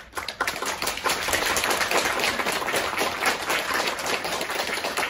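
Audience applauding, dense rapid clapping that starts suddenly and swells within the first second, then holds steady.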